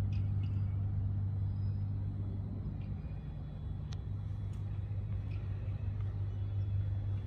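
Steady low mechanical hum, like a running engine or machine, with a faint click about four seconds in.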